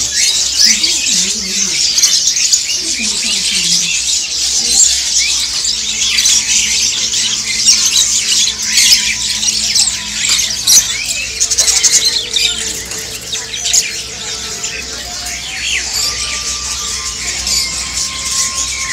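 Many caged songbirds chirping and squawking at once, a dense, continuous chorus of short high calls, with voices of people mixed in.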